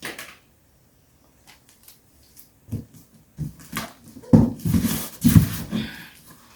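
A dog making a few short sounds, the loudest two coming a little after the middle.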